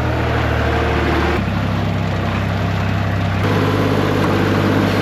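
Skid steer loader's engine running steadily, its note shifting twice, about a second and a half in and again past three seconds, as the machine is worked.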